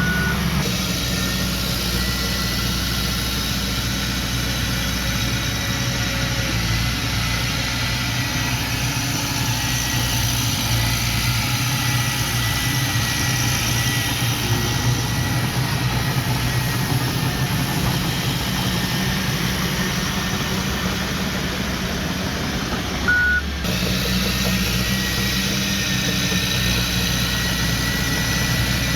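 Heavy diesel earthmoving machine engine running steadily, with one short reversing beep about 23 seconds in.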